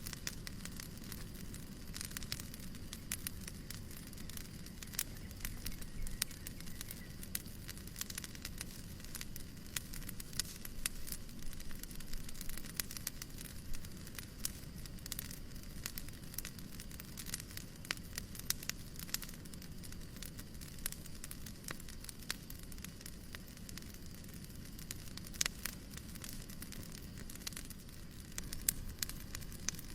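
Wood fire crackling in a fireplace: frequent irregular pops and snaps over a steady soft hiss.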